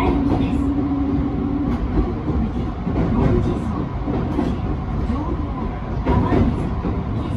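Electric commuter train running along the track, heard from on board: a steady rumble of wheels on rail with a few short clicks.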